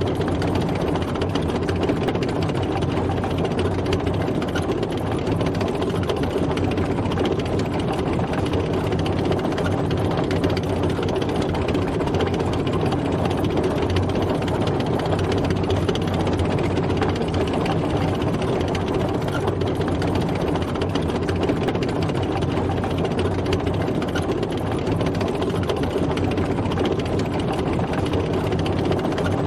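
Tank driving, its heavy engine running steadily under a constant mechanical clatter of the running gear.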